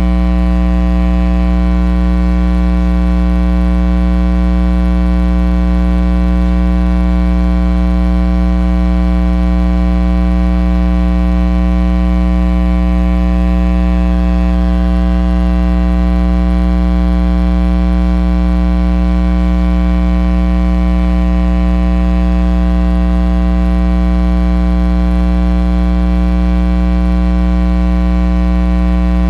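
Loud, steady electrical mains hum: a low buzz with a stack of overtones that holds unchanged throughout.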